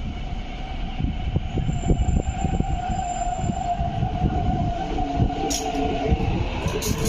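MTR East Rail Line electric commuter train running past a platform: a low rumble with repeated wheel knocks over the rail joints and a steady whine.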